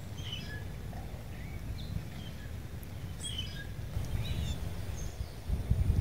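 Small songbirds chirping in short, scattered calls over a steady low outdoor rumble.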